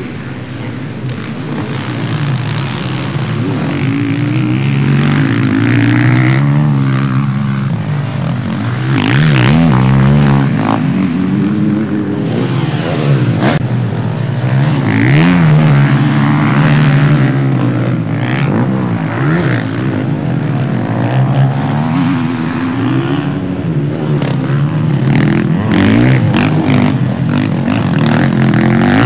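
Several motocross motorcycles racing, their engines revving up and down together, with pitch rising and falling as riders accelerate and shift.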